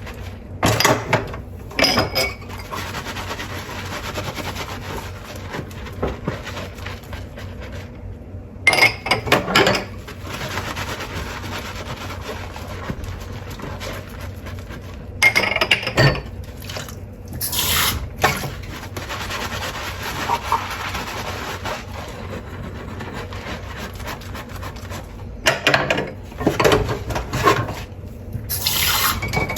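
Dishes being hand-washed under a running tap: a steady stream of water, with bursts of dishes clinking and clattering every few seconds.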